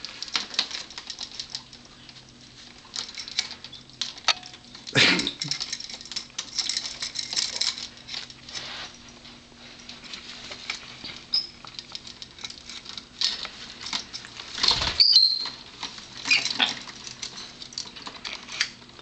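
Amazon parrot climbing and playing on a small birds' playground: scratching, clicking and rattling of beak and claws on the perches, swing and toys. There are two louder sudden sounds, about five seconds in and about ten seconds later, and a few short high chirps.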